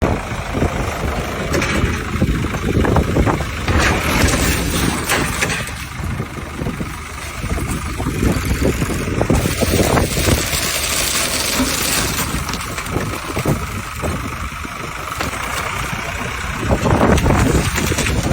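An engine running steadily, with repeated metal clanks and knocks over it, as a car is being dismantled.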